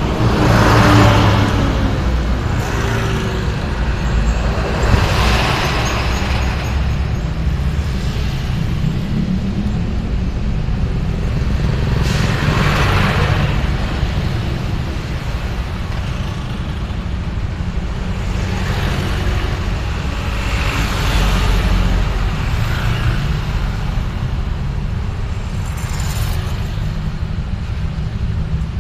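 Street traffic: a steady low rumble of engines and tyres on the road, with vehicles passing close by about five times, each rising and fading over a second or two.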